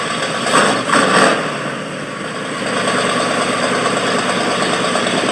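Chevrolet Corvette V8 idling through a newly built dual exhaust with Flowmaster mufflers, with two brief louder surges about a second in. It is the engine's first run in over a year and a half, still awaiting fine tuning.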